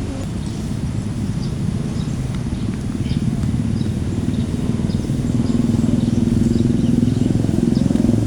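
A low engine rumble that grows louder over the last few seconds, with faint short chirps above it.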